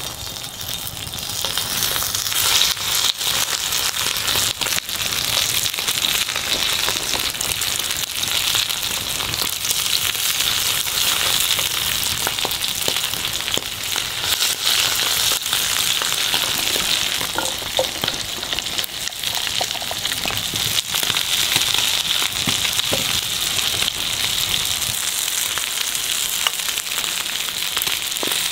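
Food frying hard in a pan over a wood fire: a steady sizzle with scattered pops and crackles, building up over the first couple of seconds.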